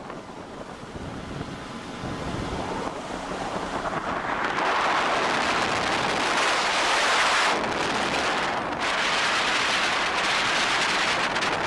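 Wind buffeting the microphone and rushing water on a moving jet ski, softer for the first few seconds and louder from about four seconds in.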